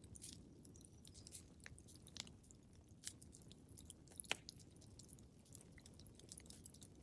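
Wood fire crackling in a fireplace: quiet, irregular small pops and snaps over a low rumble, with a sharper pop a little past four seconds in.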